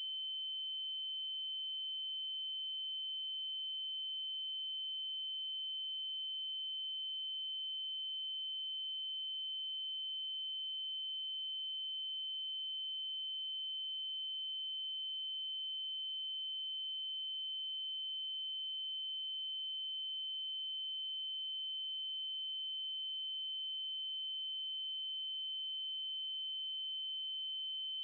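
Steady electronic 3072 Hz triangle-wave tone, one unbroken high pitch with faint overtones above it.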